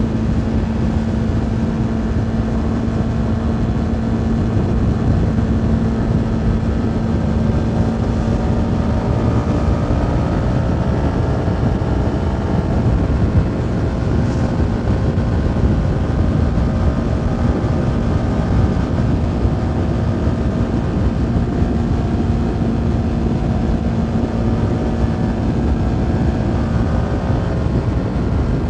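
CFMoto 300NK's single-cylinder engine running at road speed, heard under heavy wind rush on a helmet-mounted microphone, its note drifting slowly up and down.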